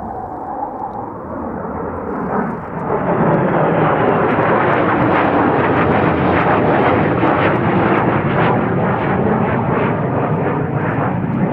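Jet roar from the twin General Electric J79 engines of a JASDF F-4 Phantom flying a demonstration pass. It swells to full loudness about three seconds in and holds there with a crackling rasp.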